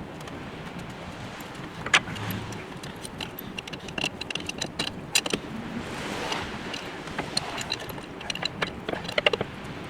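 Metal tools and parts clinking and knocking together in irregular hand work, with one sharp knock about two seconds in and quick runs of clinks in the middle and near the end.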